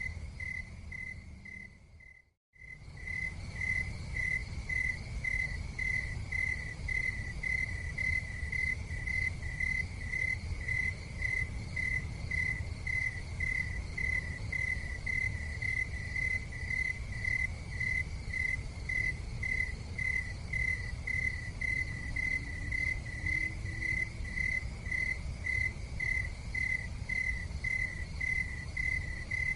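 Cricket chirping in an even, steady pulse of about two chirps a second, over a low steady rumble. The whole sound fades out and drops away about two seconds in, then comes straight back, like the seam of a looped recording.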